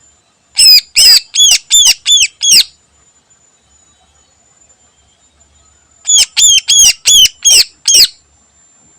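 Green leafbird (cucak ijo) singing loud, sharp call notes in two bursts of six, each run about two seconds long, a few seconds apart.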